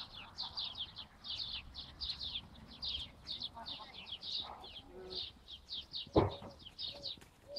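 A small bird chirping fast and without a break, short high falling chirps several a second. About six seconds in there is a single loud thump, and after it another bird begins short low calls repeating about twice a second.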